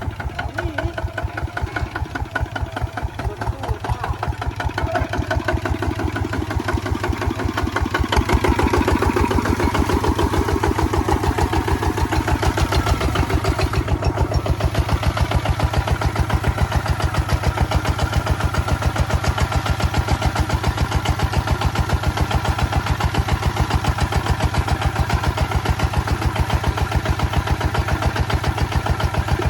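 Kubota ZT155 single-cylinder diesel engine running with an even, pulsing beat. It grows louder about eight seconds in, then holds steady.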